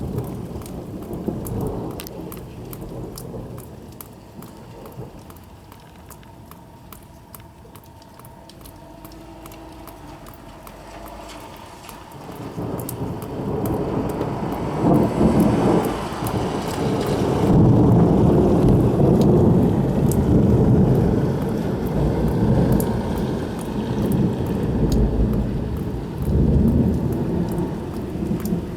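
Thunderstorm: steady rain with sharp individual drops striking close by, then a long roll of thunder builds about halfway through and rumbles on loudly for over ten seconds.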